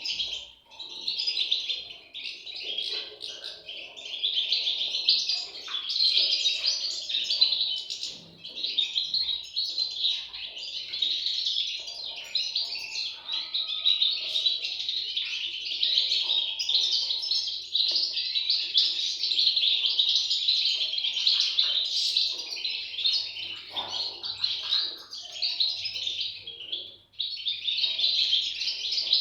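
European goldfinch chicks chirping continuously, a dense run of high calls with one brief break near the end.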